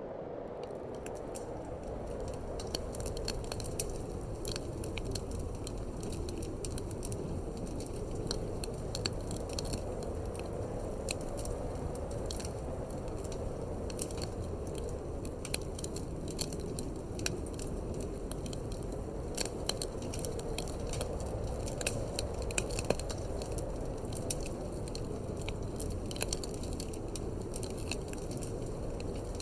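Wood fire crackling in a fireplace, with irregular sharp pops and snaps over a steady low rush of wind.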